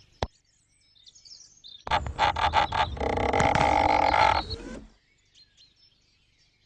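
A harsh, animal-like croak or grunt: a quick run of clicks about two seconds in that runs straight into a buzzy, pitched call lasting about a second and a half.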